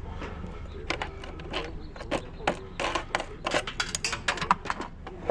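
Scrap being handled and moved: a run of irregular knocks and clatters, busiest about three and a half to four and a half seconds in.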